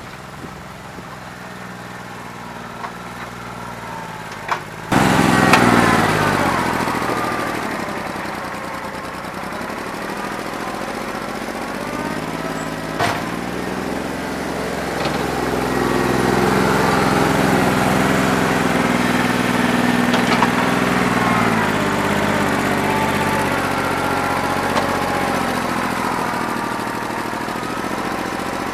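New Holland 1320 compact tractor's diesel engine running with a bad injector. It runs low and quieter at first, comes in much louder about five seconds in, then speeds up and slows down by turns, with a few sharp knocks.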